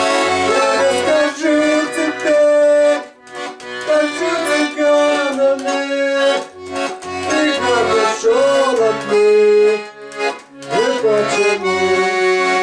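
Accordion playing an instrumental passage of a Russian folk-style song: a reedy melody in the right hand over a regular bass-and-chord pulse from the left-hand buttons.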